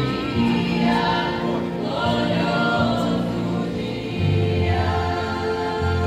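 Choir singing a Christian worship song over instrumental backing, with held sung notes; a low bass line comes in about four seconds in.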